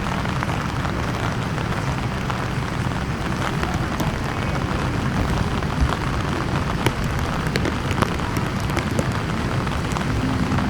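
Steady rainfall with scattered sharp drop ticks over a continuous low rumble.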